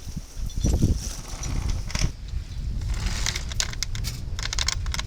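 Anchor chain clinking and rattling as it is hauled aboard by hand, ending in a quick run of metallic clicks, over wind buffeting the microphone.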